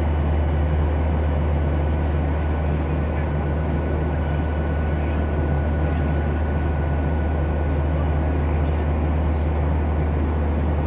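A steady low mechanical drone with a faint high whine above it, unchanging throughout.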